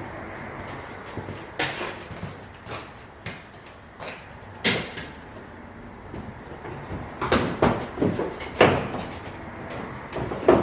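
Irregular knocks, clicks and rattles of car body parts and tools being handled during collision repair, with a run of louder knocks near the end.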